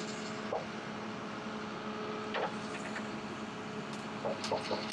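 Log forwarder's engine running steadily while it pulls the fallen tree, with a few short knocks and creaks, several close together near the end.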